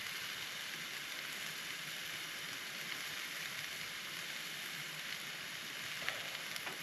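Spicy steaks frying in a pan on a camping gas stove: a steady sizzle.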